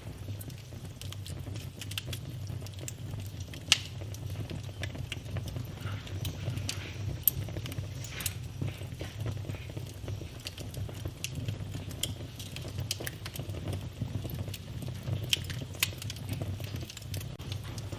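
Wood fire in a fireplace crackling: scattered small clicks and a few sharper pops over a low, steady rumble of the flames, the loudest pops about 4 and 7 seconds in.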